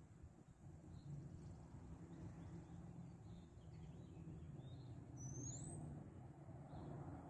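Faint, scattered bird chirps over a low outdoor background rumble, with one high rising whistle a little after five seconds in.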